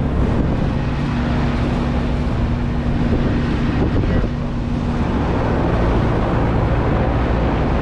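Commercial air-conditioning unit running, with its compressors and condenser fan making a steady, loud mechanical drone and low hum. A steady tone sits in the drone for a few seconds from about a second in. Both compressors are running at normal pressures.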